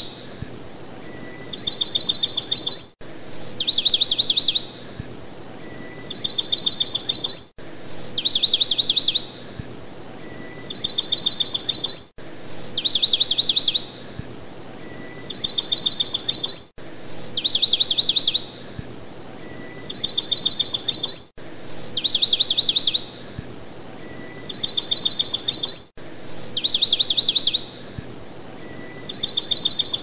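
Small bird's call, one sharp high chirp followed by two rapid high trills, repeating identically about every four and a half seconds as a looped recording, over a faint steady hiss.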